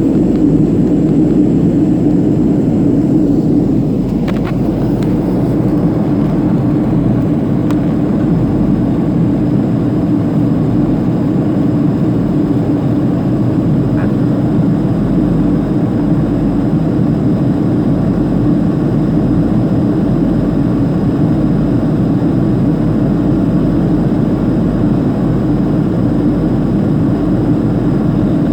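Steady cabin noise inside a Boeing 737-500 in flight: the even rush of airflow and the hum of its jet engines. The noise eases slightly about four seconds in.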